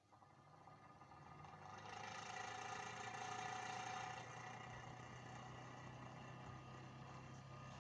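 Small electric motor of a portable rechargeable mini fan spinning up over about two seconds, then running with a steady whir and low hum, easing off slightly about four seconds in.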